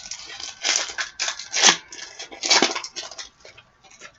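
Hockey card pack's wrapper crinkling and tearing in the hands, in several loud crackly bursts, the loudest near the middle and about two and a half seconds in.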